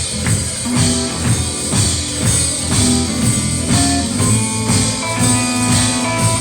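A gospel band playing an upbeat instrumental with electric guitar, drum kit and tambourine on a steady beat.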